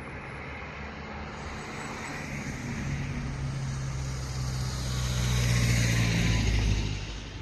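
Hyundai County bus turbo-diesel engine running, growing louder to a peak about six seconds in, then dropping away quickly near the end.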